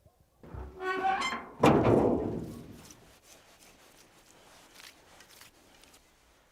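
A rising pitched tone swells for about a second, then a heavy boom hits and rings out, fading over about a second; faint clicks follow.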